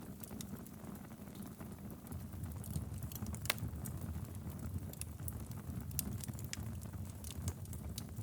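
Wood fire burning in a fireplace: a steady low rumble of flames with scattered crackles and small pops from the logs, one sharper pop about three and a half seconds in.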